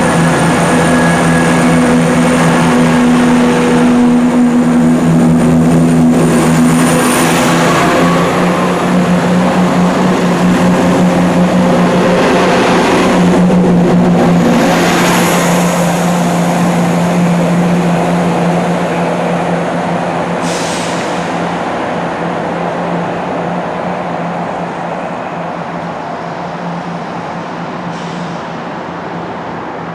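A train running with a steady engine hum, growing gradually fainter over the second half.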